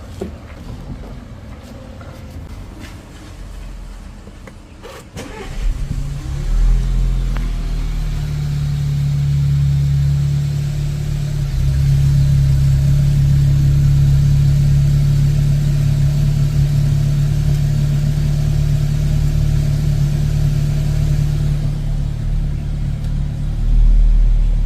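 Skoda Octavia 1.8 TSI's turbocharged four-cylinder engine cold-starting through an exhaust with the muffler deleted: it fires up about five seconds in, flares briefly, then settles into a loud, steady high idle, with a short rise near the end.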